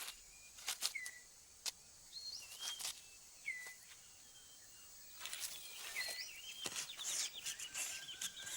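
Rainforest ambience: scattered short whistled bird calls, several dropping in pitch, over a faint steady high insect hum, with occasional sharp clicks. The calls grow busier over the last few seconds.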